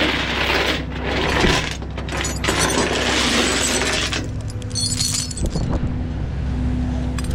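A vehicle engine running steadily, with rough clattering and scraping noises coming and going over it.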